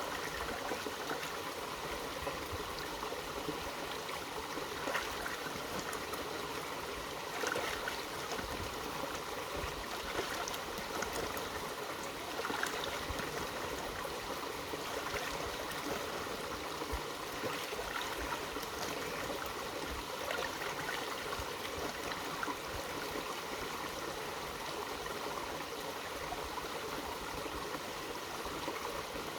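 Mountain stream flowing over rocks: a steady rush and burble of water, with brief little splashes now and then.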